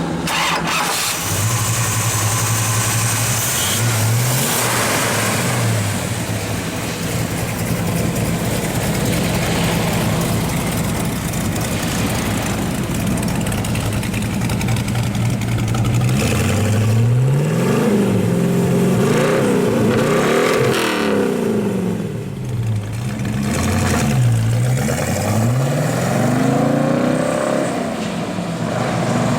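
Pontiac V8 engine of a 1965 GTO idling steadily, blipped briefly a few seconds in, then revved repeatedly, the pitch rising and falling with each throttle stab over the second half.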